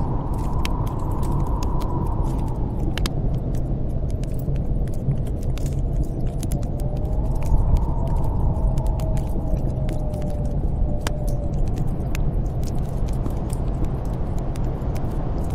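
Snowstorm wind blowing steadily with a deep rumble, whistling in slow swells that rise and fall twice. Over it, a wood fire in a fireplace crackles and pops with frequent small snaps.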